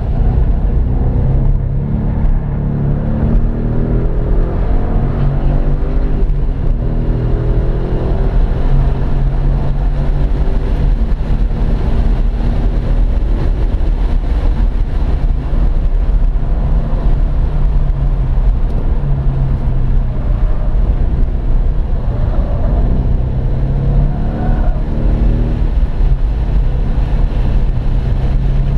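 2015 Mustang GT's 5.0 V8 engine heard from inside the cabin while lapping a race track, its note climbing under acceleration and dropping back several times as the car shifts and lifts for corners, over a steady low road and wind rumble.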